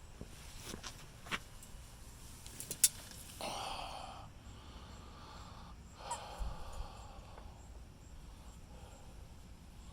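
A playing puppy huffing and snorting in two short breathy rushes, with a few sharp clicks, the loudest about three seconds in.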